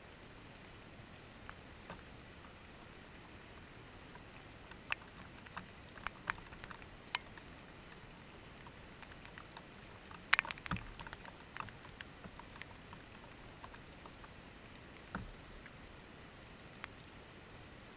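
Light rain: scattered raindrops hitting a window pane as sharp ticks over a faint steady hiss, with a quick run of louder drips about ten seconds in and a few more near the end.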